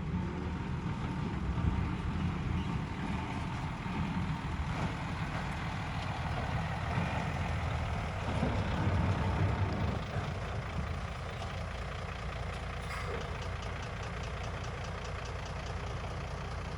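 Bulldozer's diesel engine running under load with a steady low rumble that swells about halfway through, then settles to a steadier, quieter run.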